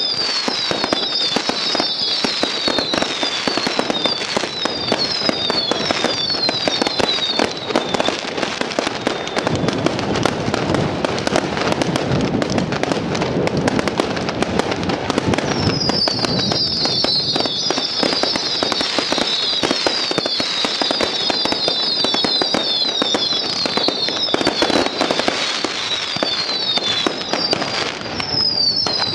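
Fireworks display: a continuous stream of bangs and crackling shell bursts. Runs of short high whistles falling in pitch, several a second, go off during the first quarter and again through most of the second half.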